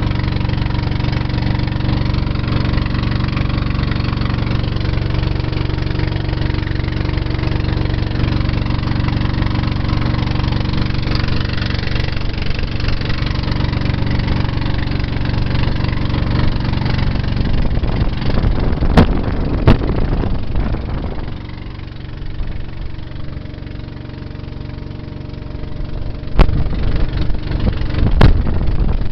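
Motorboat engine running steadily. It drops back to a lower level for a few seconds past the middle. Several sharp knocks come near the end.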